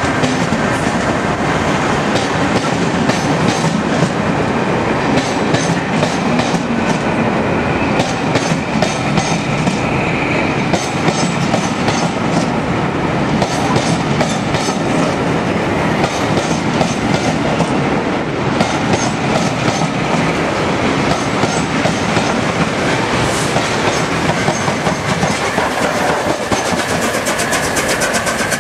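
Train of passenger coaches rolling past slowly, a steady rumble broken by recurring groups of wheel clacks over rail joints. Near the end a faster, even ticking comes in.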